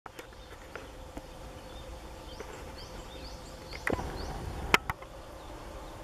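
Wild songbirds calling in the treetops, Japanese tits among them, with a quick run of short rising high notes a few seconds in. A few sharp clicks a little later are the loudest sounds, over a faint steady hum.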